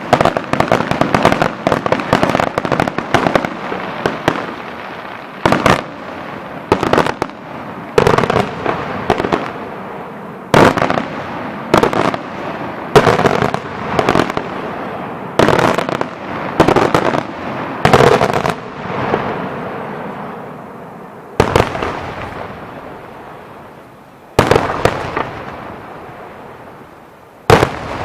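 Fireworks display: a dense run of crackling bangs, then single heavy shell bursts every two to three seconds, each followed by a long echo dying away.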